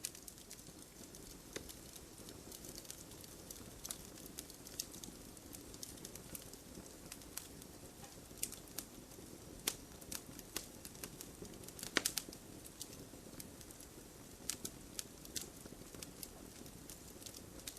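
Wood fire burning in a fireplace, crackling with irregular sharp pops over a low steady rush, with a louder cluster of pops about twelve seconds in.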